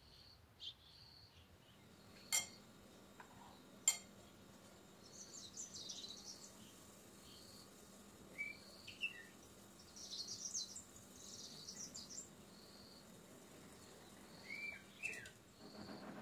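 Faint birdsong: short high chirps repeating every few seconds, bursts of twittering, and a few swooping calls. Two sharp clicks stand out a couple of seconds in.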